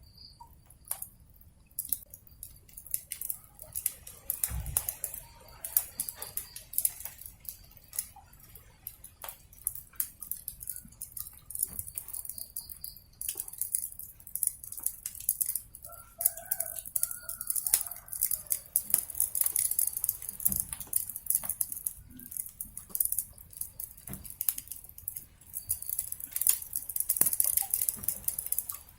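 Wood fire crackling with a dense run of sharp pops over a steady high hiss. About halfway through, a chicken gives a short call lasting about a second and a half.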